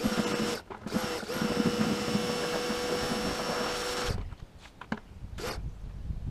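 Electric drill motor, as used with a scrub-brush attachment for power scrubbing, running at a steady pitch: two short bursts, then a continuous run of about three seconds that stops abruptly.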